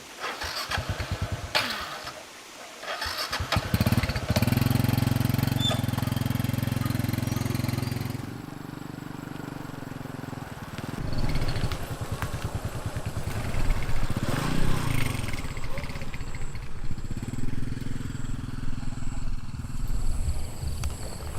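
A small engine running: a throbbing pulse, a steady spell lasting a few seconds, and a brief rise and fall in pitch near the middle.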